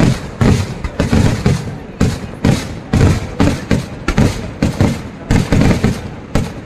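Festival fireworks going off in a rapid, irregular barrage: loud bangs about two or three a second, each trailing into a low rumble.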